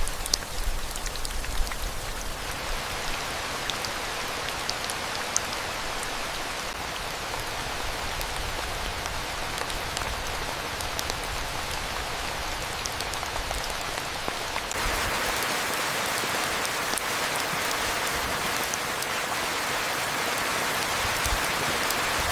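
Steady rain falling, with scattered single drops ticking out above the patter; the rain gets louder about two-thirds of the way through.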